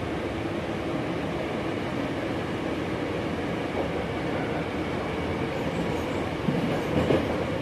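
Steady running noise inside a resistance-controlled Hankyu 5000 series electric train car: wheels rumbling on the rails, with faint steady tones underneath.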